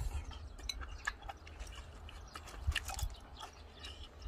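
A man eating cuttlefish ramen: chewing and mouth sounds, heard as a string of small irregular clicks and smacks.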